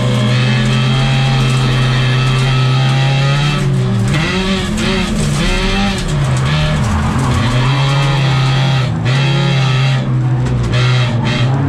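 Folk-race car engine running hard at high revs, heard from inside the stripped cabin; about a third of the way in the revs dip and climb back several times as the driver lifts and gets back on the throttle through corners.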